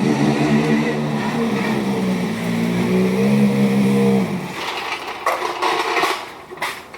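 Rally car engine running hard at high revs, its pitch climbing a little before it cuts away after about four seconds. A few short, sharp bursts of noise follow.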